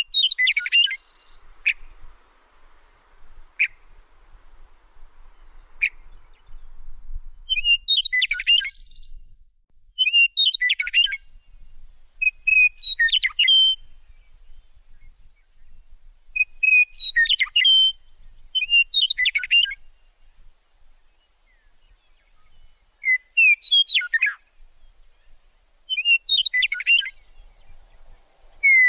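A bird singing short chirping phrases, repeated every two to three seconds, with a few single high notes in the first six seconds.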